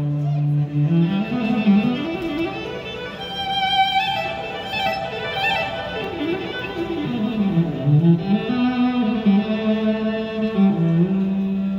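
Live music led by violin: bowed notes slide up and down over sustained lower notes.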